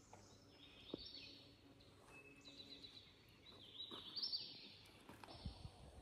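Faint songbirds singing, in several runs of quick high notes, with a soft tap about a second in.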